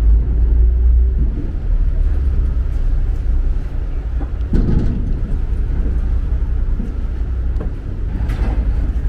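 Steady low rumble of a ferry's engines underway, with a brief louder noise about halfway through.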